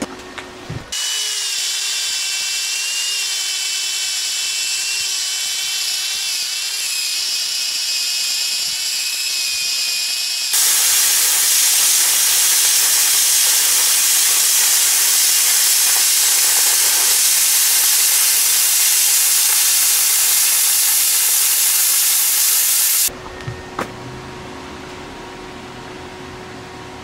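A power tool cutting a hole through quarter-inch steel plate. It runs with a whine at first, turns louder and harsher about ten seconds in, and cuts off suddenly near the end.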